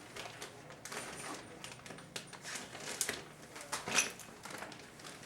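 Faint scattered clicks and rustles from a nervous pet dog moving about, a little louder about four seconds in.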